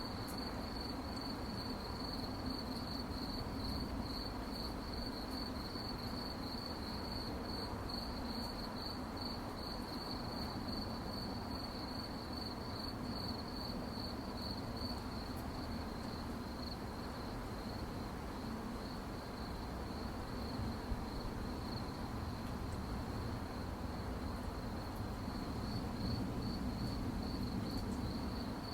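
Crickets chirping at night in a steady, rapid high-pitched trill, over a low background rumble.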